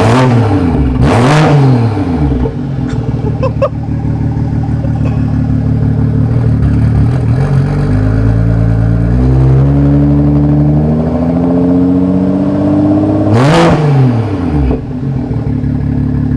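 BMW M240i's B58 turbocharged 3.0-litre straight-six running through a custom 3.5-inch straight-pipe exhaust, with a deep tone, being revved in neutral. Two quick blips come near the start, then idle, then a slow climb in revs from about halfway that ends in a sharp blip and falls back to idle.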